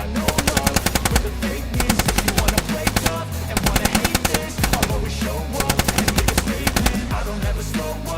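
Repeated bursts of rapid rattling hits, about ten a second, sounding like machine-gun fire, over background hip-hop music with a deep bass line.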